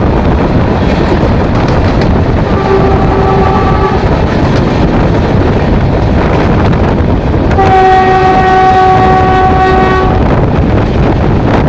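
Train running at speed with a loud, continuous rumble. A short horn note sounds about two and a half seconds in, and a longer, louder horn blast of about two and a half seconds comes near the end.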